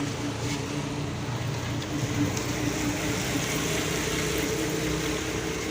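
A motor running steadily, a constant even hum with no change in speed.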